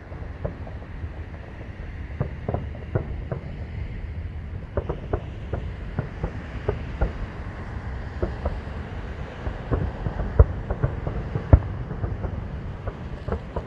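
Distant fireworks show: aerial shells going off in irregular succession, many muffled bangs and pops a few to the second, the loudest about ten and eleven and a half seconds in, over a low steady rumble.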